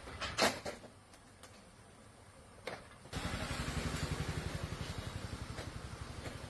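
A few sharp clicks and knocks, then about three seconds in a motor starts up suddenly and runs with a fast, even pulsing.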